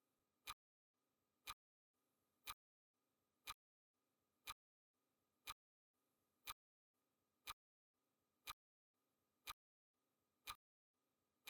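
Clock ticking sound effect of a countdown timer: one sharp tick every second, evenly spaced, with a faint hiss just before each tick.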